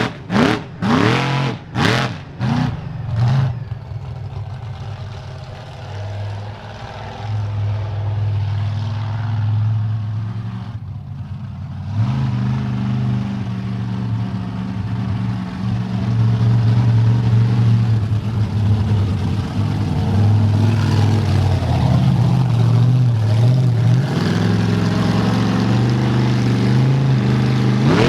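Monster truck engine revved in several quick blips, then running at a steady idle that steps up to a higher speed about twelve seconds in.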